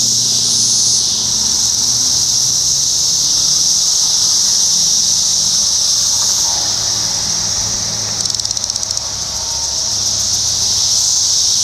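Chorus of Brood X 17-year periodical cicadas: a loud, steady, high-pitched drone, with a brief rapid pulsing a little past the middle.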